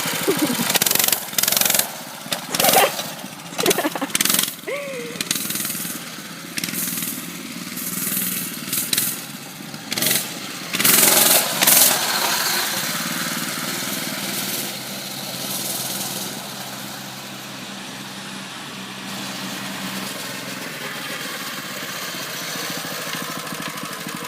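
Coleman CT200U mini bike's small single-cylinder four-stroke engine running while the bike is ridden. Loud, short noise bursts come and go through the first twelve seconds, then the engine settles into a steadier drone.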